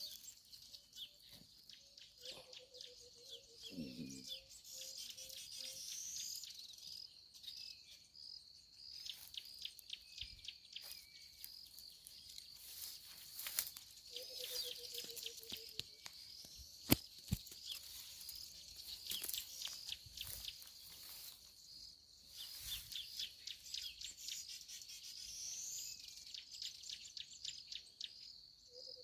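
Crickets or similar insects chirping in a steady, high, pulsing chorus. A lower trilled call sounds three times, and there are scattered soft clicks.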